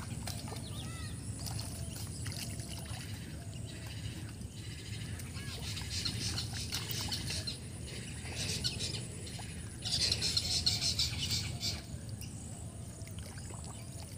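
Birds chirping and chattering, busiest and loudest about ten seconds in, over a steady low outdoor rumble.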